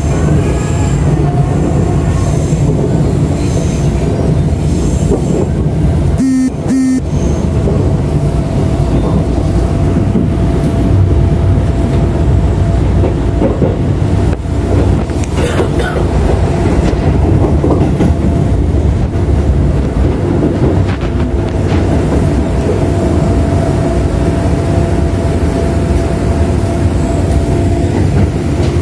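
Electric commuter train running at speed, heard from inside a carriage: a continuous rumble of wheels on rail with a steady whine held throughout.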